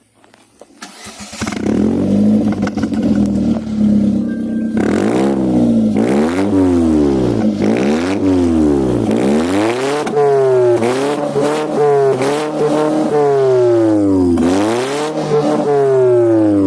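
Ford Fiesta 1.5S engine through an aftermarket Akrapovic slip-on muffler and spiral resonator. It idles steadily, then from about five seconds in it is revved again and again, the exhaust note rising and falling several times.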